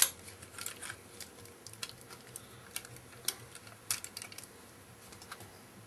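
Irregular small clicks and taps of a Transformers Binaltech toy car's parts being handled and rotated as it is transformed, with a sharp click right at the start.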